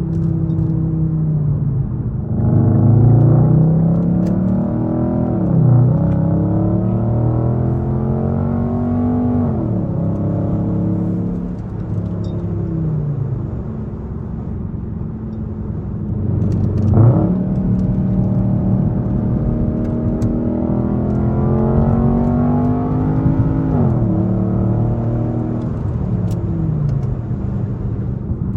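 Straight-piped 5.6-litre V8 of an Infiniti M56 pulling hard through the gears. Its pitch climbs and drops sharply at each shift, several times over, with a quick dip and sharp rise in revs about two-thirds of the way through.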